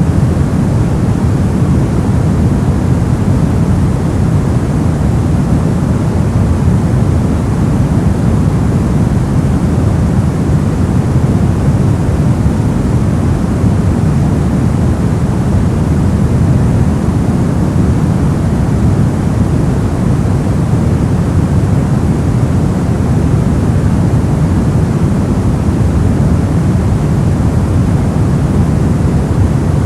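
Steady, unchanging generated noise sold as white noise, though most of its weight sits low, so it sounds like a deep, dull hiss rather than a bright one.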